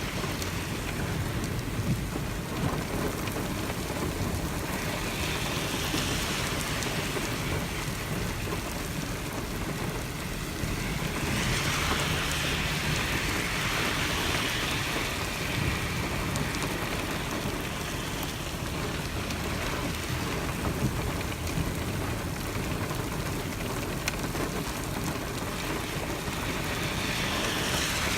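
Heavy rain pouring down in a steady hiss that swells louder several times, most strongly around the middle.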